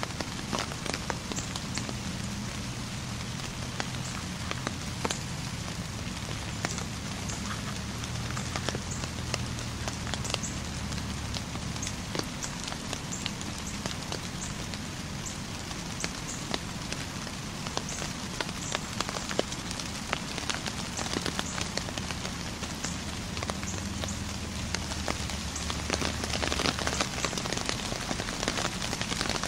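Steady rain falling on leaves and brush, with many small sharp drop hits, growing a little louder near the end, over a low steady hum.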